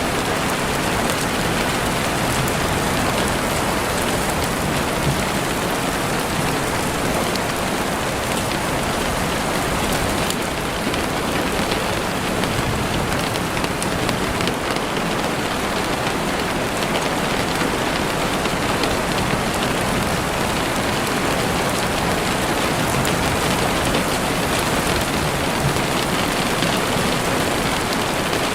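Steady rain falling through trees, a dense even patter with scattered faint drop ticks.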